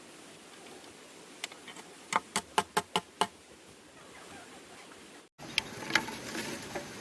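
A quick run of about six sharp knocks, roughly five a second, lasting just over a second. After a brief dropout, scattered lighter ticks and knocks follow.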